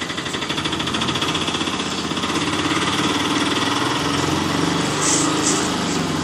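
Toy taxi running, its toy motor or friction gearing making a steady, fast, buzzing rattle.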